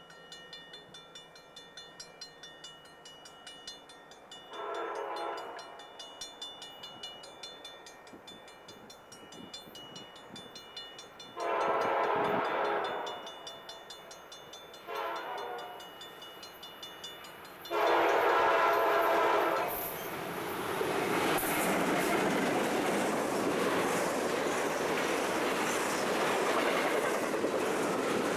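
A crossing-signal bell ringing steadily, then a diesel locomotive's air horn blowing four blasts for the grade crossing, the last one held longest. From about 20 s in, the loud rumble and clatter of a double-stack intermodal freight train passing close by.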